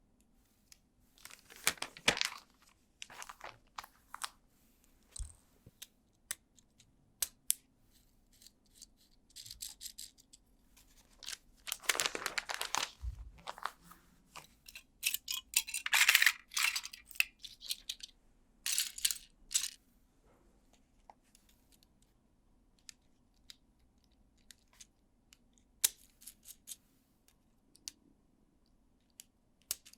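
Plastic parts bags being torn open and crinkled in several bursts, with scattered sharp clicks of plastic LEGO pieces between.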